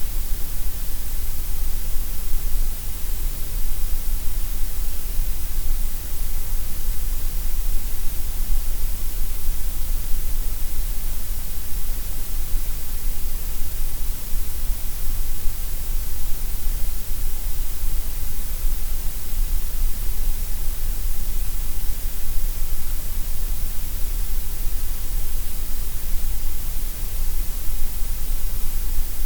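Gray noise: a steady, unchanging synthetic hiss, strongest in the deep bass and the high treble and thinner through the middle.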